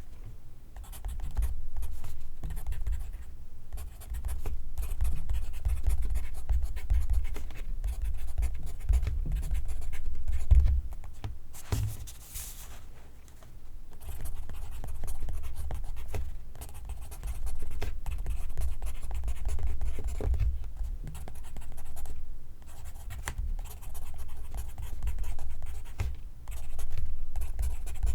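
Pencil writing on paper, close-miked: a continuous run of scratchy strokes broken by a few short pauses.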